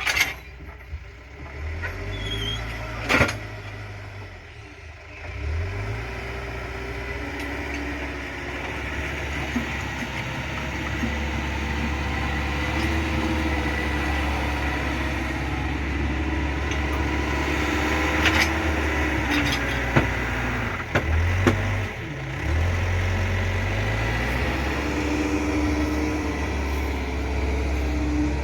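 Backhoe's diesel engine running, revving up about a fifth of the way in and again near the end, with a few sharp knocks from the machine at work.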